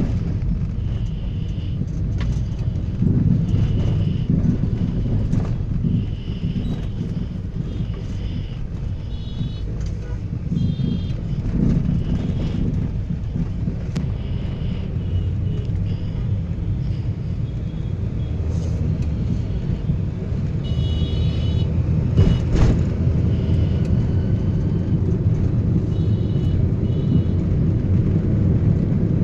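Toyota Noah car driving, a steady low rumble of engine and road noise. Short higher-pitched tones come and go every few seconds, and there is a single sharp thump about two-thirds of the way through.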